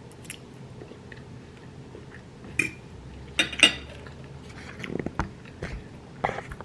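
Eating sounds: a fork clicking against a plate a few times, three sharp clicks close together in the middle, with softer clicks and chewing noises near the end.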